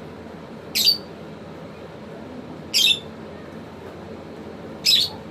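African lovebird giving three short, loud, high-pitched calls, about two seconds apart.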